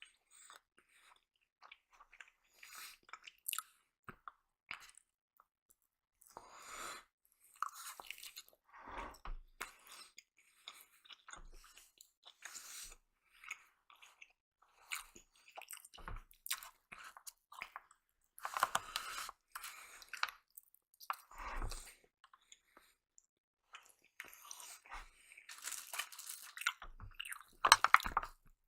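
A person chewing and crunching breakfast food close to the microphone, in irregular short bursts with pauses between, the loudest bursts near the end.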